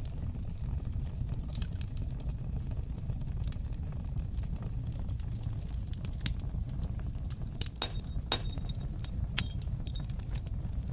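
Wood fire crackling in a fireplace: a steady low rumble of flames with scattered sharp pops and snaps. They come thicker a little before the eight-second mark, and one loud pop stands out about nine seconds in.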